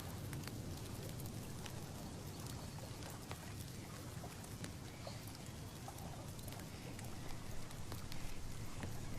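Steady outdoor ambience: a low, even rumbling noise with scattered light ticks and clicks throughout.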